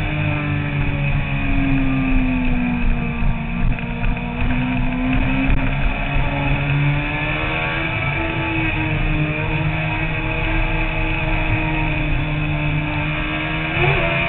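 Sport motorcycle engine running while riding, its pitch sagging and rising smoothly as the revs change, then climbing quickly near the end.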